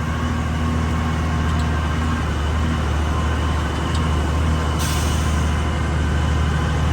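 Truck engine running steadily under load on an uphill climb, heard from inside the cab. A brief hiss cuts in about five seconds in.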